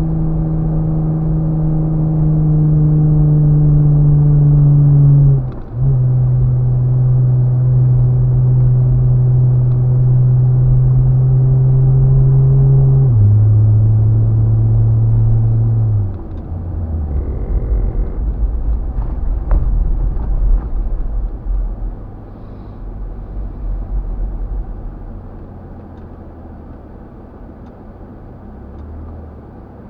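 Off-road 4x4's engine running loud and steady, its pitch stepping down twice as it shifts gear, about five and thirteen seconds in. About sixteen seconds in it eases off to a lower rumble that slowly fades.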